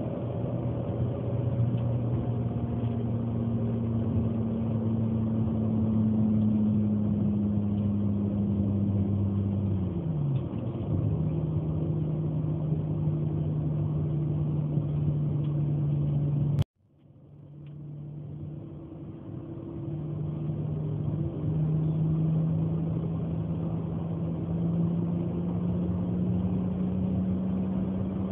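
1998 Mazda 626's 2.5-litre V6 exhaust through an N1 universal muffler, droning at steady revs. About ten seconds in the pitch drops as the revs fall. Shortly after halfway the sound cuts out suddenly, then fades back in and slowly rises in pitch.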